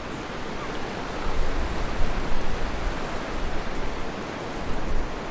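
Seaside ambience: a loud, steady rushing of surf and wind, with a deep rumble from the wind on the microphone that surges between about one and three seconds in and again near the end.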